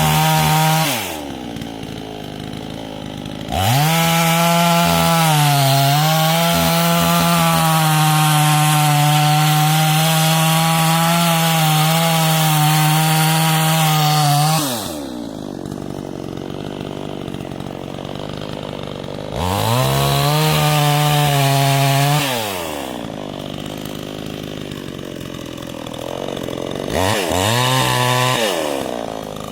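ECO 52-18 petrol chainsaw run at full throttle in bursts, cutting wood, and dropping back to idle between cuts. The longest burst lasts about eleven seconds, with its pitch dipping briefly under load early in that cut. Two shorter bursts come near the end.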